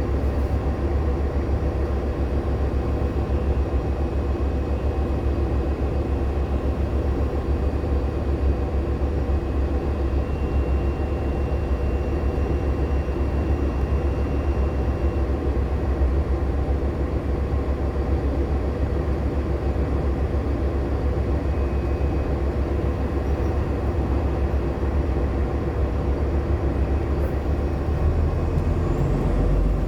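Diesel-electric hybrid transit bus (Nova LFSA HEV with a Cummins ISL9 diesel and Allison H40 EP hybrid drive) running along, heard from inside the cabin as a steady low drone of drivetrain and road noise. A faint thin high whine appears for a few seconds about ten seconds in.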